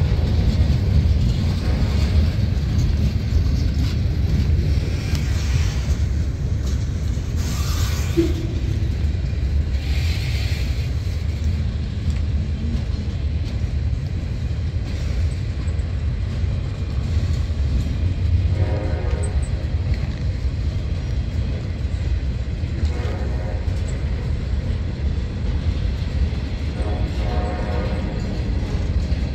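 Freight cars of a long mixed train (boxcars, centerbeam and tank cars) rolling past close by, a steady low rumble of steel wheels on the rails. A few brief pitched tones sound over it, about halfway through and again near the end.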